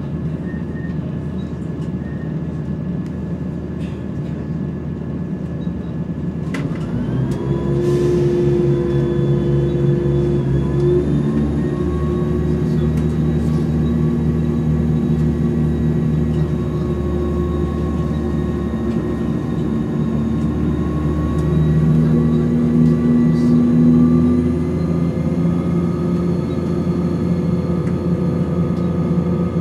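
Class 170 Turbostar diesel multiple unit heard from inside while under way: a steady low running rumble with several high whine tones over it. About seven seconds in the tones rise in pitch and the sound grows louder, and the whine then climbs slowly higher for the rest of the stretch.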